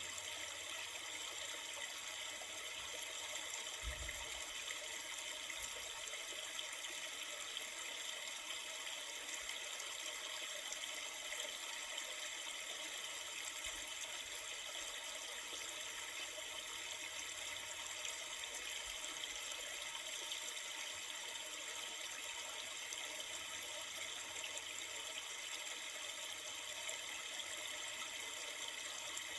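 Steady rushing flow of a river, an even, unbroken water noise.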